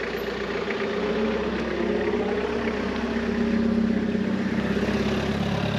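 A car's engine running with road noise while driving, growing gradually louder.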